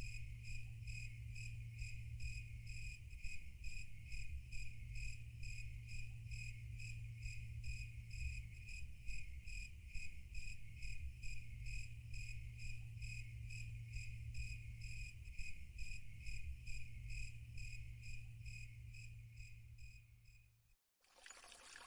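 Cricket chirping in an even rhythm, about two chirps a second, over a low steady hum. It cuts off suddenly near the end, and a soft rush like flowing water starts.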